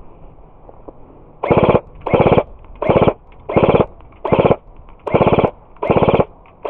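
Airsoft electric gun firing about eight short full-auto bursts, each a fast rattle of shots lasting about a third of a second, evenly spaced.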